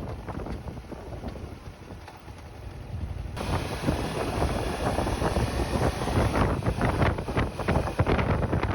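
Wind buffeting the microphone in uneven gusts, louder from about three seconds in.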